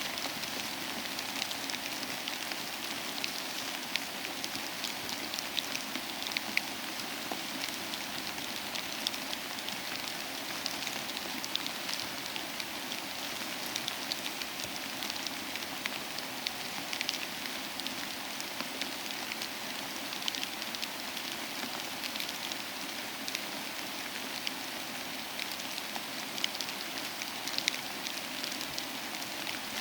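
Steady soft rain falling, mixed with the scattered small pops and crackles of a wood fire burning in a fireplace.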